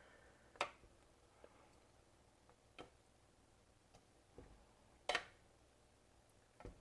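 A spoon knocking against a cooking pot four times, sharp and short, while a curry is stirred. The loudest knock comes about five seconds in; between the knocks it is near silence.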